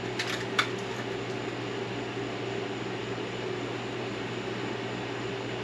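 Three or four light metallic clinks in the first second, as steel transmission parts or tools are handled, then a steady mechanical hum.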